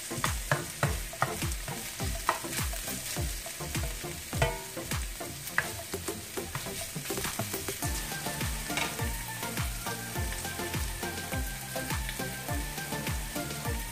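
Onion, garlic and ginger sizzling in oil in a ceramic-coated frying pan while a plastic spoon stirs and scrapes them around the pan in quick, regular strokes, about three a second.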